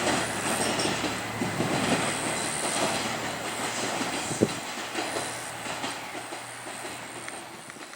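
Diesel railcar's wheels clicking over rail joints with a faint high wheel squeal, the sound fading gradually.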